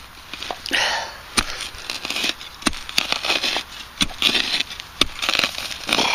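Digging in soil and breaking up clods at the bottom of a small hole: a series of sharp clicks and short gritty scrapes at irregular intervals.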